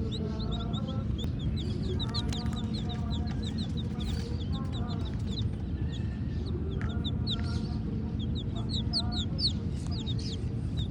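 Baby chicks peeping: many short, high, downward-sliding chirps in quick succession, with a few lower-pitched calls now and then, over a steady low rumble.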